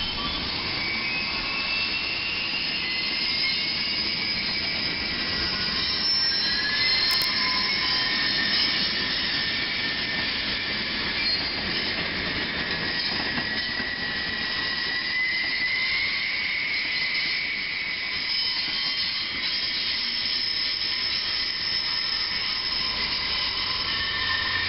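Freight train of covered hopper cars rolling past, its steel wheels squealing in several high tones that slowly drift in pitch over the steady rumble of the cars.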